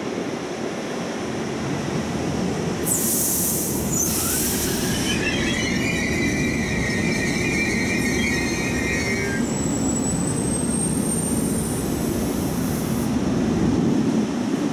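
Double-deck regional passenger coaches rolling slowly past as the train brakes into a station, with a continuous rumble and clatter. Squealing starts about five seconds in and lasts a few seconds, followed by a higher, slightly rising squeal. Short hisses come before the squealing and again near the end.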